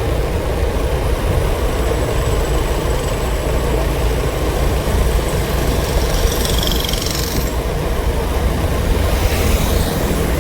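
Vehicle engine running steadily at idle with a low rumble. A faint high whistle sounds for about a second and a half, around six seconds in.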